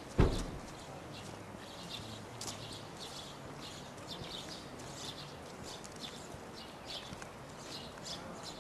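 A sharp thump right at the start, then small birds chirping in short, irregular high calls over a steady outdoor background.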